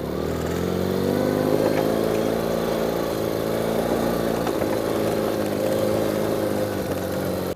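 Motorcycle engine running, its revs rising over the first second and then held steady.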